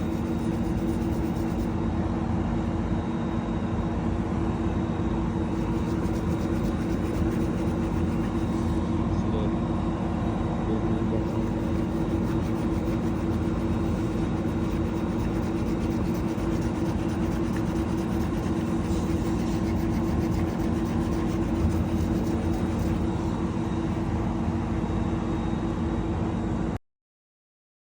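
Semi truck's diesel engine idling steadily with an even, low hum. The sound cuts off abruptly near the end.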